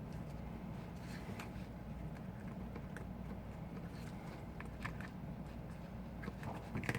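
Scattered small clicks and taps of tools and parts being handled during iPhone disassembly, over a steady low hum.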